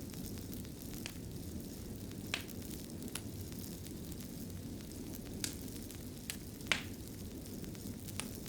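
Fireplace fire burning steadily with a low rumble and crackling, broken by about seven sharp, scattered pops, the loudest about two-thirds of the way through.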